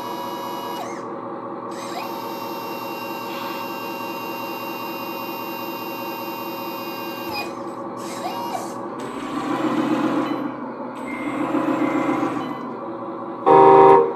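Electric motor and hydraulic pump of a 1/14 scale full-metal RC articulated dump truck whining steadily. It swells twice as it works under load, then a short, loud tone sounds near the end.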